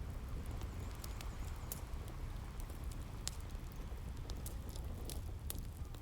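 Wood fire crackling, with scattered sharp pops, over the steady low wash of sea waves.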